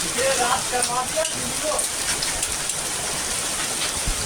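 Heavy rain pouring onto the road, a steady hiss of water. Voices are heard faintly over the rain in the first second or two.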